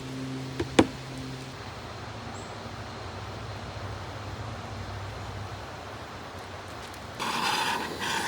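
Steady hiss of a camp stove burner heating a pot of pasta water that has not yet come to the boil. A low hum stops about a second and a half in, a sharp click comes just before it, and a louder scraping rustle comes near the end.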